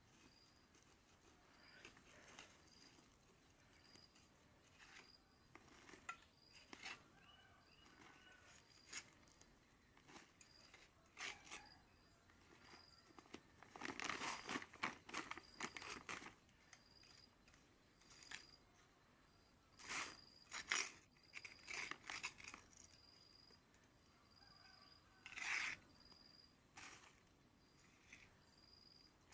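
Faint, scattered rustling, crinkling and clicking, with a busier flurry about halfway through and a few louder crackles later on. Behind it a faint high chirp repeats a little more than once a second, over a thin steady high whine.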